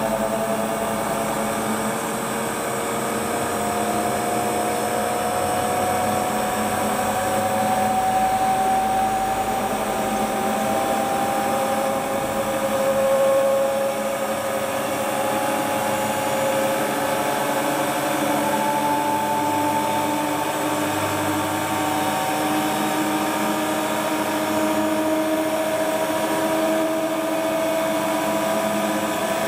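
Hotpoint Ultima WT960 washing machine spinning on its new replacement drive belt, the motor's whine climbing slowly in pitch as the drum gathers speed.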